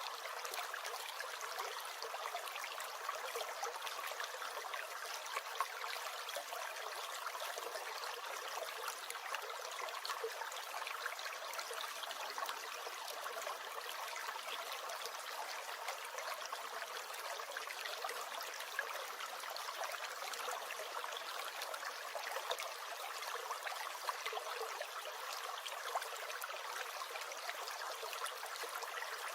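A brook gurgling: a steady rush of running water with small splashes scattered through it.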